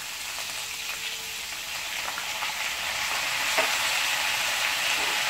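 Pumpkin pieces and soaked moong dal sizzling in hot oil in a kadai, stirred with a wooden spatula; the sizzle grows steadily louder.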